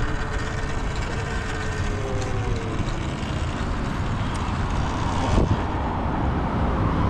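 Wind rushing over the microphone and road noise while riding an electric dirt bike, with a faint whine that slides down in pitch about two seconds in. There is a short louder thump about five seconds in.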